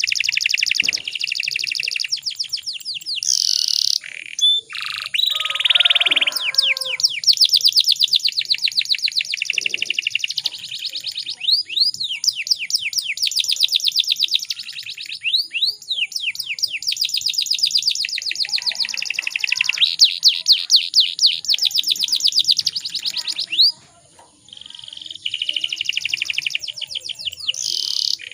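Domestic canary singing: long runs of fast, high trills and repeated chirps, with a short break near the end.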